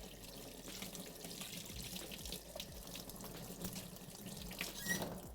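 Tap water running into a sink, a steady hiss with small splashes and clicks, stopping near the end.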